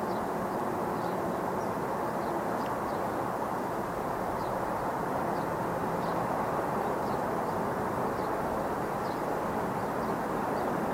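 Steady rumble of a CSX freight train rolling across a railroad bridge, even in level throughout, with faint short high squeaks recurring every half second or so.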